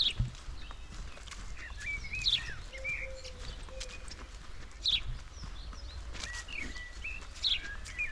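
Small forest birds calling, short sharp high call notes every couple of seconds and twittering chirps between them, over a low rumble of wind on the microphone and a few dull footfalls on the forest floor.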